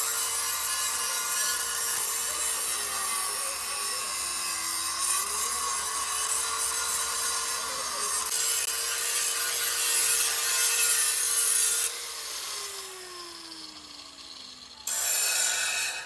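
Handheld electric grinder working on the truck's sheet metal, giving a loud abrasive grinding noise over a steady motor whine that dips in pitch as it is pressed in. About twelve seconds in it is switched off, and the whine falls steadily as the disc winds down. A short loud burst of grinding comes just before the end.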